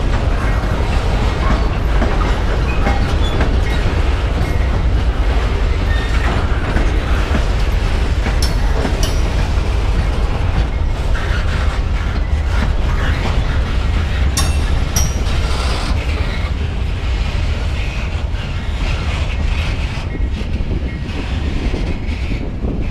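CSX freight train rolling past, with a steady low rumble and the cars clicking and clattering over the rails.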